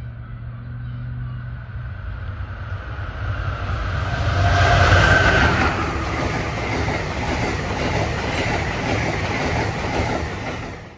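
Amtrak passenger train passing close by at speed: the rumble and clickety-clack of the cars build over the first few seconds, are loudest about five seconds in, and then run on steadily until they cut off suddenly at the end.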